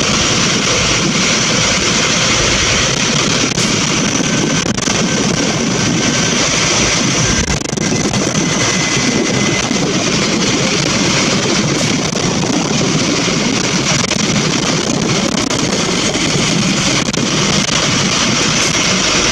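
Scania N230UB single-deck bus under way, heard from inside: steady engine and road noise with a few light clicks.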